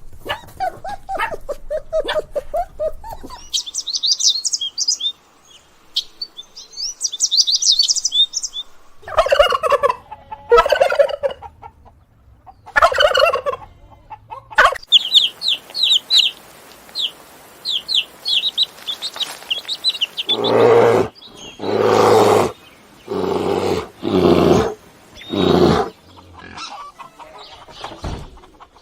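Poultry calling in a series of separate clips: bursts of high, rapid cheeping and chirping alternate with lower calls, and near the end a run of loud, evenly spaced calls.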